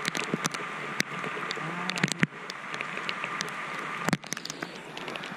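Steady rain with a constant hiss, and irregular sharp taps of drops landing close by.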